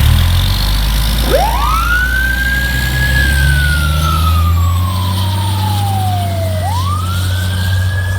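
Fire truck siren starting up about a second in: a quick rise to a high pitch, a slow fall, then another quick rise near the end, over the low rumble of the truck's heavy diesel engine pulling out.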